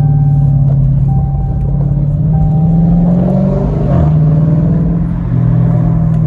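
Straight-piped Dodge Challenger engine droning steadily while driving, with catalytic converters kept. Its pitch briefly dips and recovers about four seconds in.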